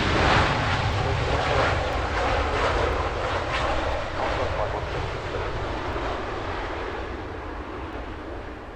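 Jet airliner engines passing close by, loud at first and then slowly fading as the aircraft moves away.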